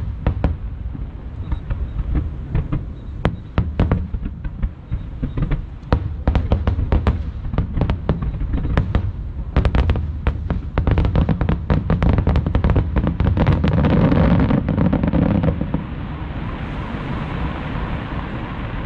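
Aerial fireworks shells bursting in rapid volleys of sharp bangs, densest near the finale. They stop about sixteen seconds in, leaving a steady background noise.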